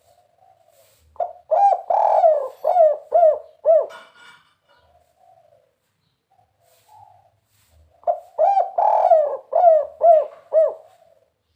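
Spotted dove (tekukur) singing its 'kuk 3' cooing song: two loud phrases about seven seconds apart, each a quick run of six or seven arched coos, with soft low coos between them.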